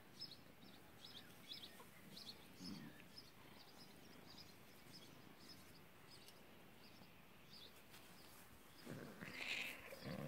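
Quiet garden ambience with faint, scattered small-bird chirps. A brief, louder rustle comes near the end.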